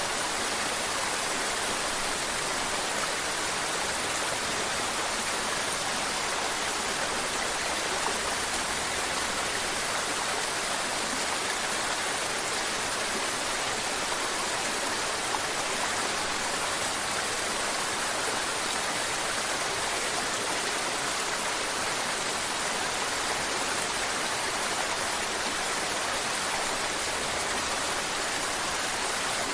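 Mountain river water rushing and babbling over rocks, a steady, even sound without pause.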